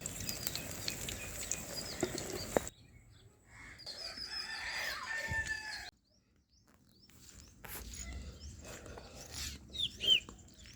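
Farmyard chickens: a rooster crowing and hens clucking, with small birds chirping, heard in short clips that cut off abruptly twice.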